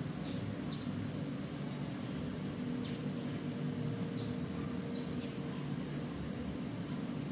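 Steady low outdoor background rumble with a faint steady hum, and short, faint high chirps of small birds scattered through.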